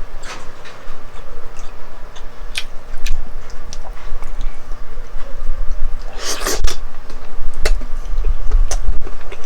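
Close-miked eating sounds of someone eating pork leg soup: chewing with scattered small clicks, and a louder noisy burst about six seconds in.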